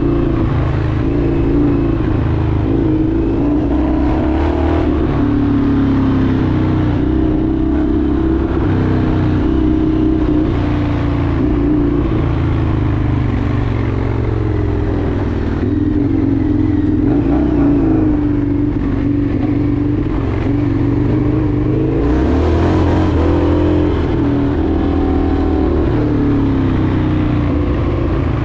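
Indian FTR 1200's V-twin engine running under way, its pitch rising and falling with the throttle.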